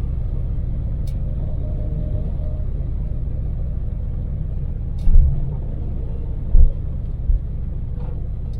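Daewoo Damas microvan running on LPG, heard from inside the cab while driving: a steady low engine and road rumble. Three short, loud low thumps come in the second half, and there are a couple of faint clicks.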